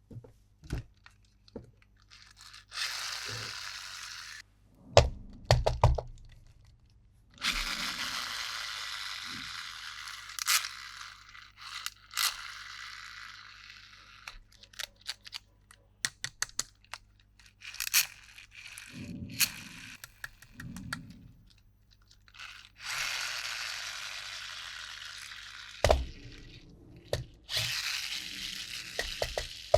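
Toy packaging being handled: several stretches of crinkling, tearing plastic and cardboard, broken up by many sharp clicks, cracks and a few dull thunks of plastic parts.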